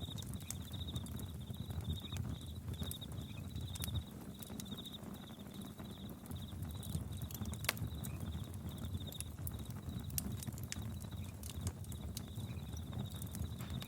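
Campfire crackling with scattered sharp pops, one louder pop near the middle, over a low rumble. Crickets chirp in fast pulsed trains throughout, with a few short breaks.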